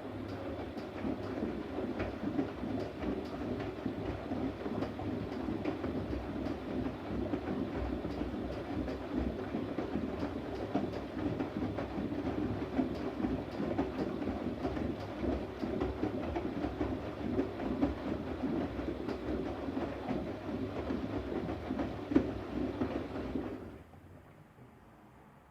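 Siemens Siwamat iQ 716 front-loading washing machine turning its drum during a wash phase: a steady churning of tumbling laundry with many small clicks, stopping about 24 seconds in.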